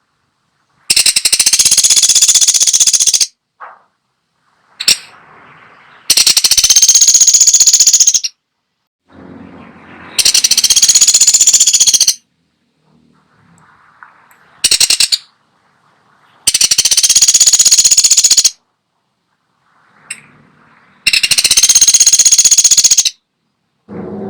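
Pelatuk sampit woodpecker giving loud, rapid rattles, five of about two seconds each, spaced a few seconds apart, with fainter calls between them.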